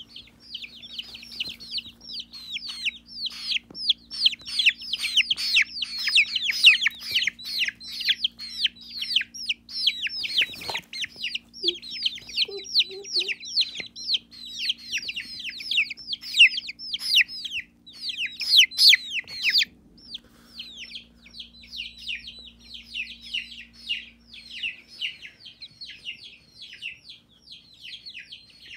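Baby chicks peeping continuously: many quick, high, falling peeps, louder for the first two-thirds and softer after about twenty seconds, over a steady low hum.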